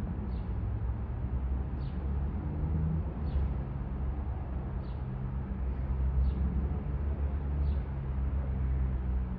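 Steady low engine rumble with a few held low tones, and a short, falling, high chirp repeating about every second and a half.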